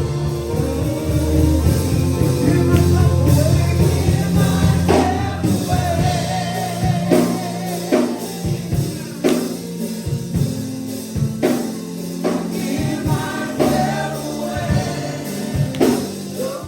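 Gospel worship music: singers over sustained keyboard and bass chords, with a steady drum beat about once a second joining around five seconds in. It cuts off suddenly at the end.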